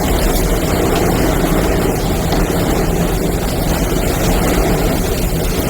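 Tornado winds rushing around a storm-chase vehicle, heard from inside the cabin as a loud, steady noise.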